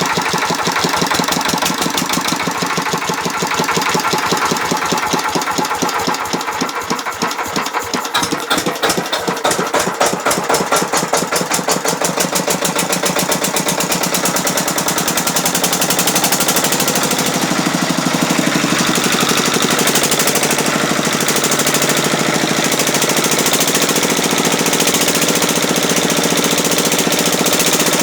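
5 hp engine running with distinct, evenly spaced firing beats. A few seconds in the beats slow and soften, then they quicken and settle into a steady, faster run through the second half as the engine picks up speed.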